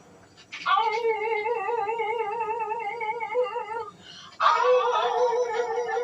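Cartoon wolves howling: long held, wavering notes at a steady pitch. The first breaks off about four seconds in, and the next starts half a second later.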